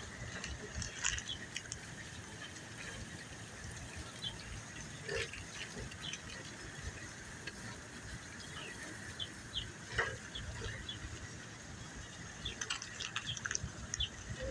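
Outdoor background noise with scattered short high chirps and ticks. No bee buzzing stands out.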